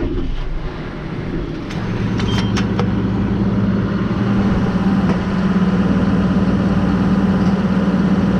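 John Deere 6155M tractor's diesel engine running just after start-up, settling into a steady idle hum after about two seconds. A few sharp clicks come in around the same moment.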